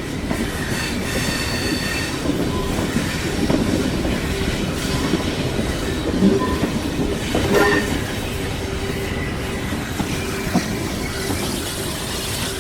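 Railway coach wheels running on the rails: a steady rumble with thin squealing tones from the wheel flanges and a few sharp clicks from the track.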